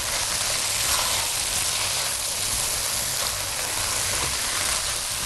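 Soaked freekeh grains frying in oil and butter in a hot pan, sizzling steadily as they are stirred with a spatula.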